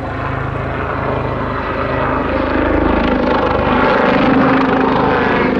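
Westland Lynx helicopter's turbine engines and rotors running in flight, growing steadily louder as it approaches.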